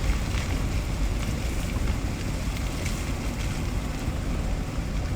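Moving vehicle on the road: a steady low rumble of tyres and engine with wind noise.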